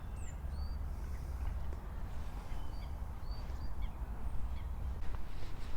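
Faint, short high-pitched bird chirps, a few scattered calls, over a steady low rumble of wind on the microphone.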